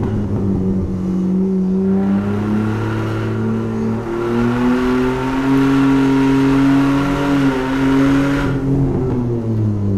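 Chevrolet Omega 3.0 straight-six engine heard on board at track pace. The pitch drops at the start like an upshift, then the engine note climbs steadily under throttle for several seconds, and it falls away near the end.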